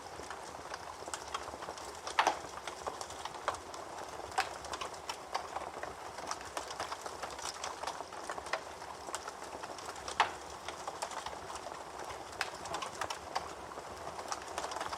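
Campfire burning, with a steady hiss and many small irregular crackles, plus a few louder sharp pops at about 2, 4½ and 10 seconds in.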